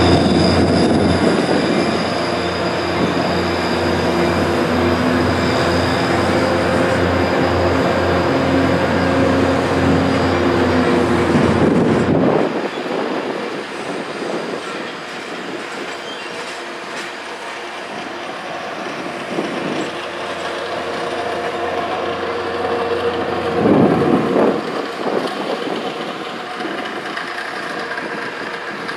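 Caltrain passenger train rolling slowly past, with steady wheel squeal and rumble. About twelve seconds in it drops abruptly to a quieter rolling rumble, with a brief louder swell near the end.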